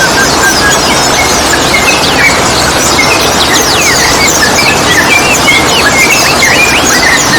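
Yellow-vented bulbul (trucukan) calls: many short chirps and quick whistled sweeps in close succession, over a loud, steady rushing noise.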